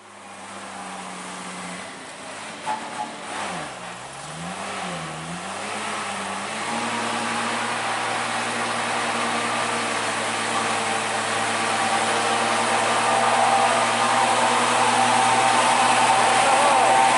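Old truck's engine running, its pitch dipping and rising a few times a few seconds in, then holding steady and growing louder.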